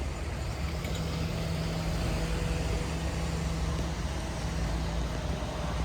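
Diesel train engine idling steadily: a low, even rumble with a faint steady hum.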